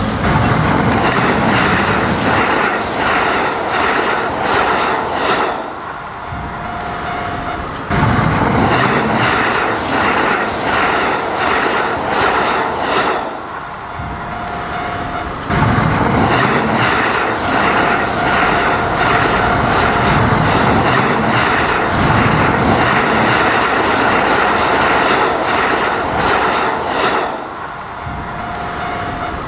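Electric trains passing over a level crossing, wheels clattering over the rail joints, with the crossing's warning bell repeating. The sound drops and then jumps back up suddenly twice.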